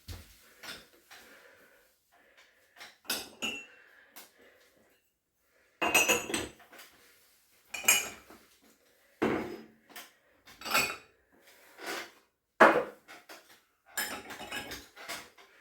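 Dishes and cutlery clattering as they are taken out of a dishwasher rack and set down: a string of separate clinks and knocks, about ten in all, with short quiet gaps between.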